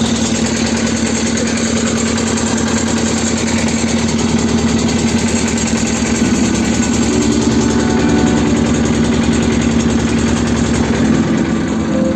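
Engine of a small wooden river motorboat (pompong) running steadily with a fast, even putter.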